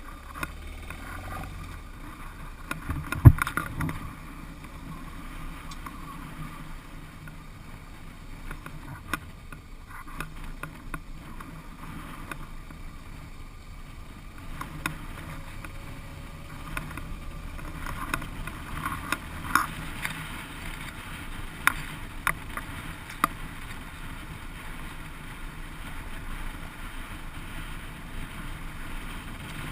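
Dual-sport motorcycle engine running at low revs on an unpaved road, with scattered knocks and rattles from the rough surface and one loud thump about three seconds in.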